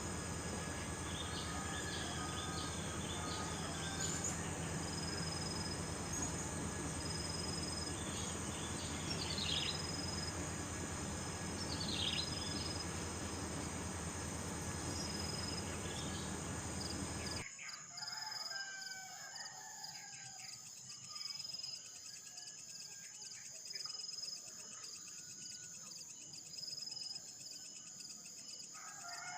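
Steady high-pitched insect trilling, like crickets or cicadas, with short bird chirps and calls over it. About two-thirds of the way through, the background hiss drops away abruptly and lower, warbling bird calls follow.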